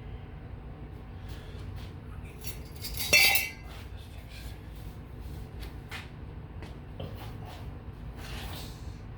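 Pieces of metal being handled and set down, with scattered light taps and one loud ringing clink about three seconds in.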